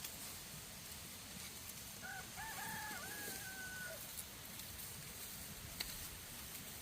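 A rooster crowing once, about two seconds in, lasting about two seconds: a short opening note, then a long held note that tails off.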